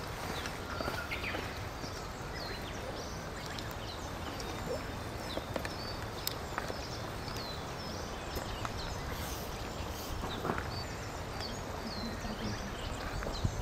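Small birds chirping over a steady outdoor hiss: many short, high chirps scattered throughout, with a few faint clicks.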